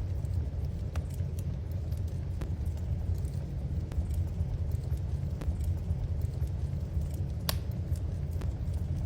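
Wood fire burning in a fireplace: a steady low rush with scattered crackles, and one sharper pop about seven and a half seconds in.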